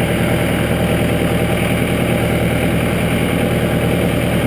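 Case IH DX55 Farmall tractor's diesel engine idling steadily, still warming up after a cold start.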